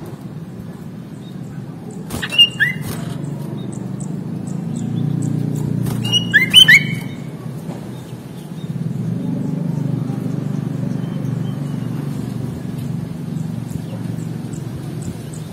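Sooty-headed bulbul giving two short bursts of whistled calls, one about two seconds in and another about six seconds in, over a steady low rumble.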